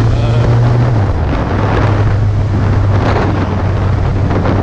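Suzuki GSX650F inline-four engine running at a steady cruise, a low drone whose pitch drops slightly about a second in, under heavy wind noise on the microphone.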